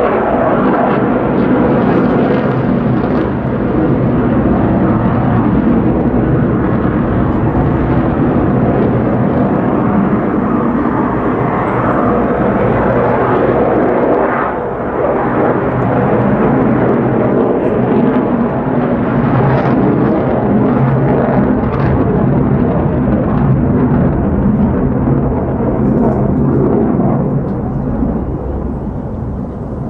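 F-35A Lightning II's single Pratt & Whitney F135 turbofan engine at high power as the jet flies its display: loud, continuous jet noise that briefly dips about halfway through, then builds again.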